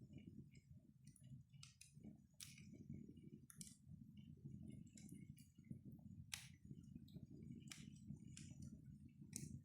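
Faint, irregular crackles and pops of a wood fire burning in a fireplace, over a low, steady rumble.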